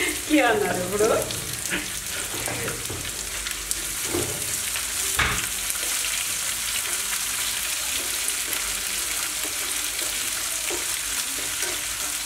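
Chopped onion and garlic sizzling steadily in hot oil in a nonstick frying pan, stirred with a plastic spatula.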